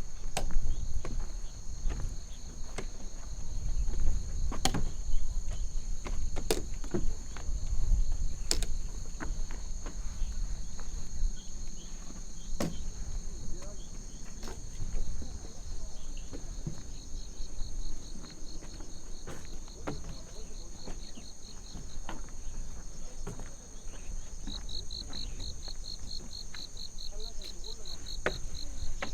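Insects chirring steadily at a high pitch, with a fast pulsed trill joining twice in the second half. Scattered ticks and a low rumble sit beneath.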